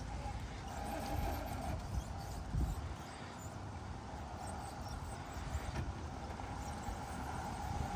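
RC rock crawler working over rocks: a mid-pitched electric motor whine that comes and goes, with scattered knocks of tyres and chassis on rock.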